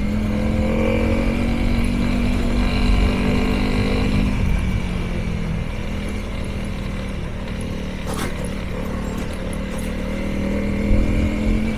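Honda CRF300L's single-cylinder engine running at low speed on a rough gravel track. It eases off about four seconds in and picks up again near the end, with a single knock about eight seconds in.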